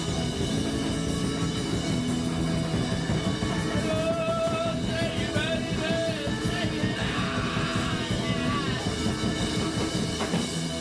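Live rock band playing: a drum kit keeps a busy, steady beat under electric guitar and bass, with a wavering melodic line over it in the middle.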